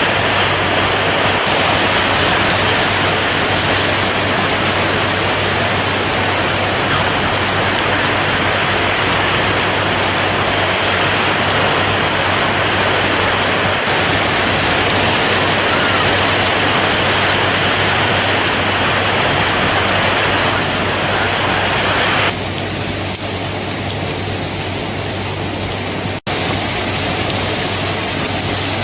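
Steady, loud rain noise. About three-quarters of the way through it abruptly turns quieter and thinner, with a momentary dropout shortly after, as at an edit in a looped recording.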